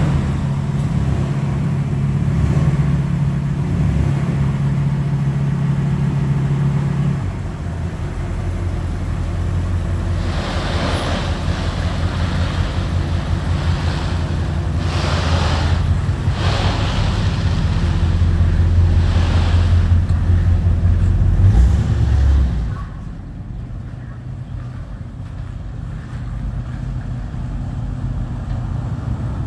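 A car engine running at idle after a cold start. Its steady note drops to a lower pitch about seven seconds in, and the sound falls to a quieter level about twenty-three seconds in.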